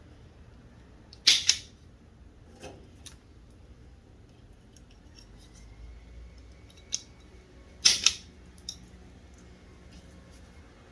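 Wire cutters snipping through automotive wire twice, about a second in and again near eight seconds, each a quick double snip, with a few small clicks and taps of handling between.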